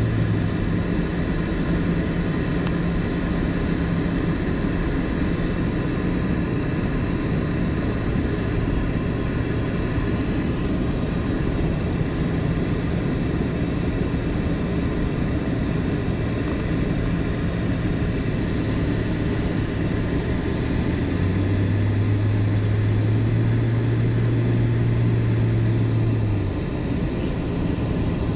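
Car engine and tyre noise heard from inside the cabin at moderate track speed, a steady drone. Near the end the engine note grows louder for about five seconds and then drops off suddenly.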